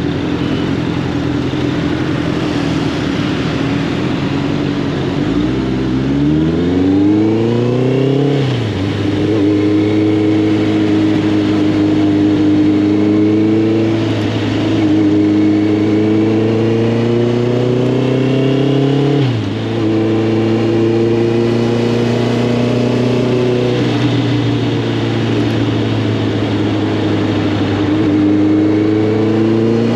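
Honda CB650R's inline-four engine through an Arrow Thunder full exhaust system, under way: a steady low note at first, then revs climb and fall sharply at an upshift about eight seconds in, a long slow pull, and another upshift around nineteen seconds before steady running.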